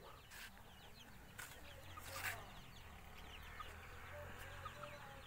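Many birds chirping faintly in quick, short, falling calls, with three brief knocks in the first half.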